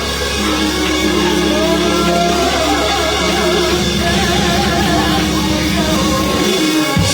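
Loud live band music with guitar, sustained chords over a steady bass; the bass drops out briefly near the end.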